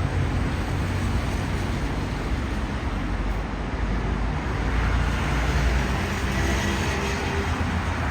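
Road traffic running steadily, with a vehicle's low engine rumble growing louder about halfway through.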